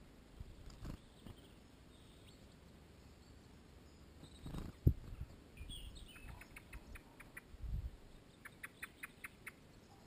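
A small songbird giving two quick runs of short, evenly spaced high call notes in the second half. A single sharp knock about five seconds in is the loudest sound, with a few low rumbling bumps around it.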